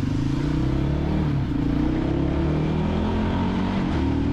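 Voge 300GY dirt bike engine pulling away and accelerating, its pitch rising and dipping several times as it picks up speed.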